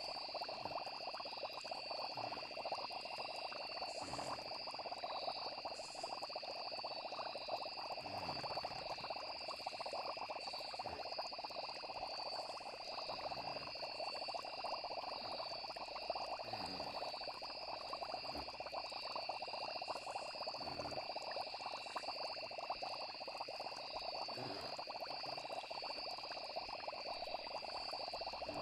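Night nature ambience: a dense, continuous frog chorus over steady high-pitched insect trills, with a few soft low sounds that fall in pitch every few seconds.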